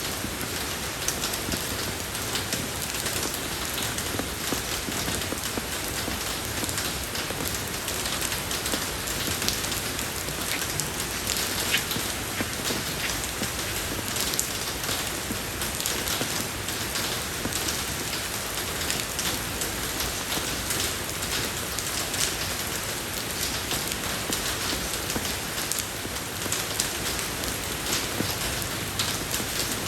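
Steady rain falling on a road surface: an even hiss of rainfall with many fine drop ticks.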